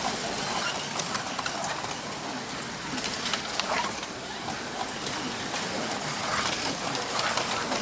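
Slot.it Oxigen digital slot cars running laps on the track: a steady whir of motors and tyres with scattered clicks.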